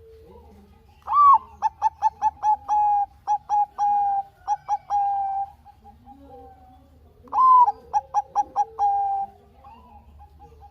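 Zebra dove (Bangkok-bred perkutut) singing two song phrases. Each opens with a higher note that slides down, runs into a quick series of short coos, and ends on longer held coos. The first phrase starts about a second in and lasts about four seconds; the second, shorter one comes after a pause of about two seconds.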